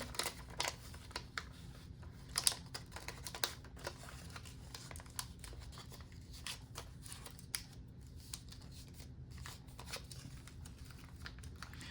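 Paper bills and cash envelopes being handled: faint, irregular rustling with scattered light clicks and taps.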